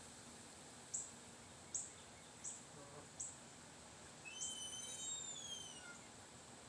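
A small bird calling: four short, very high chirps about three-quarters of a second apart, then a longer call of several falling whistled notes, over a steady faint hiss.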